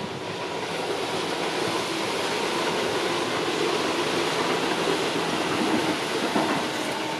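Multi-car electric train passing on the track, a continuous rumble of wheels on rail that grows louder over the first few seconds, holds through the middle and eases slightly near the end as the last cars go by.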